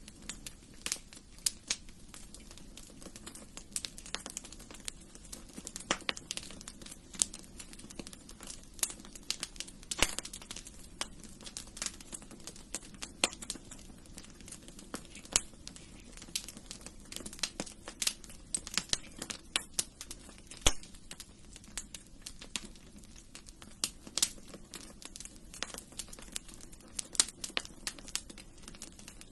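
Wood fire in a fireplace crackling, with irregular sharp pops and snaps over a steady low background noise.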